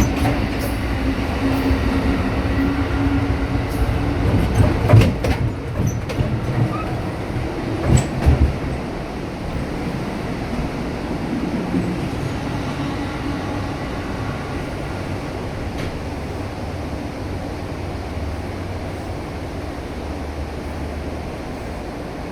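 Moving passenger train heard from inside, crossing the walkway between cars: a steady rumble and rattle, with a few sharp clanks about five and eight seconds in. It grows quieter after about nine seconds.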